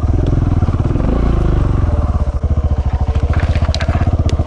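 KTM 690 Enduro's single-cylinder four-stroke engine pulling at low revs on a steep climb, each firing pulse distinct, with a swell of throttle about a second in. A few sharp clicks and clatters, likely stones under the tyres, come near the end.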